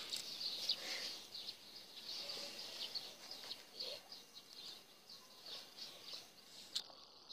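Small birds chirping in the background: a run of short, high, irregular notes over a faint outdoor hiss.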